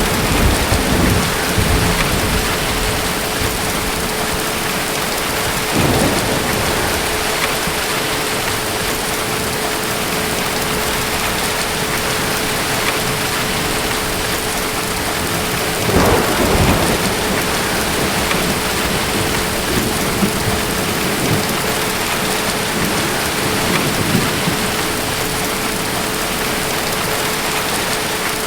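Steady rain with distant thunder, rumbling low near the start, again about six seconds in and again about sixteen seconds in. A faint steady hum runs underneath.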